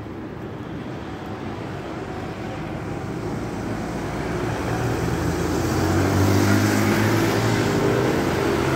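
Road traffic: a motor vehicle's engine hum growing steadily louder as it approaches, loudest in the second half, over general street noise.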